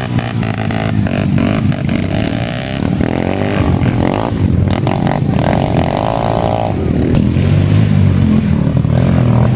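Dirt bike engines running and revving during an enduro motocross race. A higher engine note rises and falls between about four and seven seconds in.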